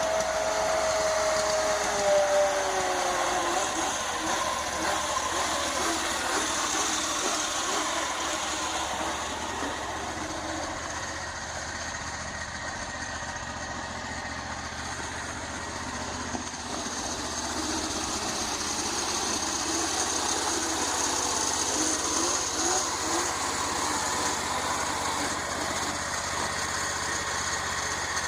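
Predator 670 V-twin small gasoline engine running; about two seconds in its pitch drops as the revs fall, then it runs on at a lower speed.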